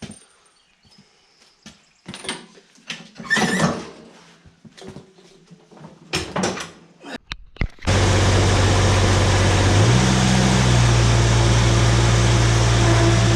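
A few clanks and knocks, then about eight seconds in the Kubota three-cylinder diesel engine of a Woods 6215 mower starts running loudly and steadily, its speed stepping up a little about two seconds later as the freshly repaired mower is run for a test.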